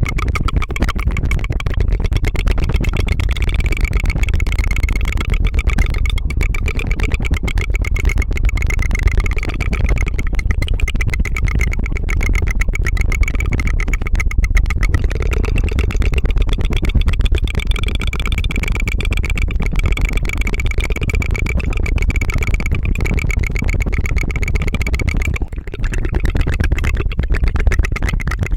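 Tongue fluttering into the microphone: a continuous rapid trill of the tongue that makes a steady purring buzz like an idling engine, with one brief break near the end.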